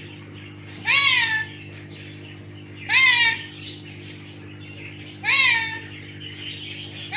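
Parrot mimicking a cat's meow: three short meow-like calls, each rising then falling in pitch, about two seconds apart, over a steady low hum.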